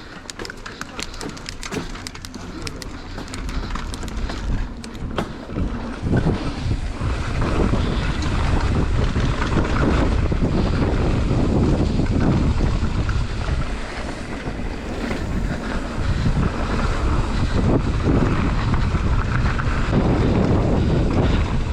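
Mountain bike descending a trail: sharp clicks and rattles over the first few seconds, then wind buffeting the microphone and tyre rumble that grow much louder about six seconds in as speed builds.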